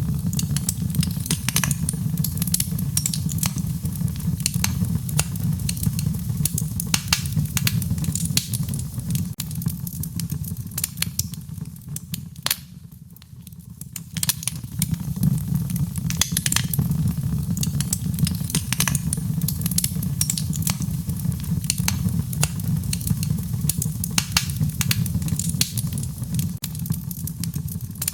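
Wood fire crackling, with dense sharp pops and snaps over a steady low rumble of burning flames. It briefly quietens about halfway through, then picks up again.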